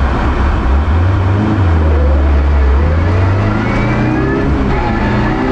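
Rally car engine under acceleration, heard from inside the cabin: a deep drone at first, then the engine note climbing in pitch over the last couple of seconds.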